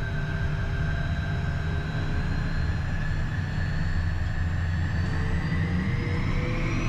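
Beechcraft Premier 1A's twin Williams FJ44 turbofan engines running, heard from the cockpit: a steady low rumble under a thin whine. About five seconds in, the whine starts rising in pitch as the engines spool up for the takeoff roll.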